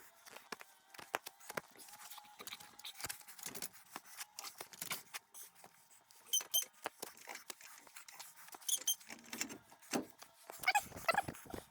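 Scattered light clicks and taps, with a few short, high, squeaky animal calls about halfway through and a louder run of rising calls near the end.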